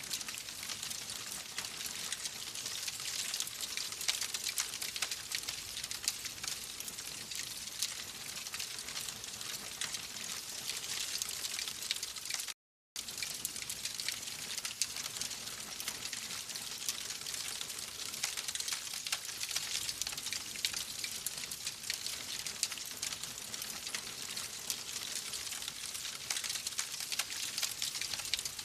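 Wood fire crackling in a fireplace: a steady hiss dense with small pops and snaps. The sound drops out to silence for a moment about halfway through.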